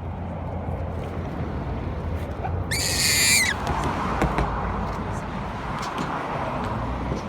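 A baboon gives one short, shrill scream about three seconds in, over the steady low hum of an idling car engine.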